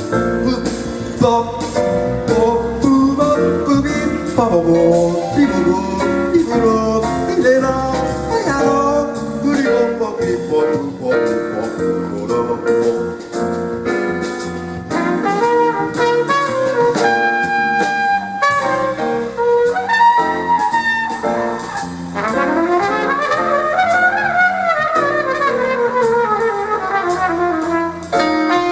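Live jazz combo playing, with a mellow flugelhorn leading the melody over drums with steady cymbal ticks, bass and piano. About three-quarters of the way through, the horn plays a long descending run.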